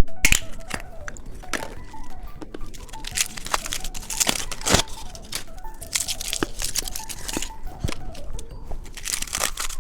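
Candy wrapper on an earth gummy being torn open and crinkled, with irregular sharp crackles.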